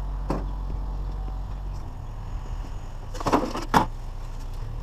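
A vehicle engine running with a steady low rumble. A brief click comes just after the start, and two short knocks come close together about three and a half seconds in.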